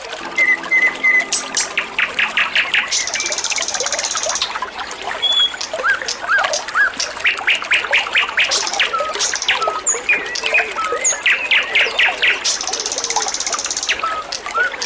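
Songbird singing a varied string of whistled notes, chirps and rapid trills, with some buzzy high phrases, over steadily trickling water.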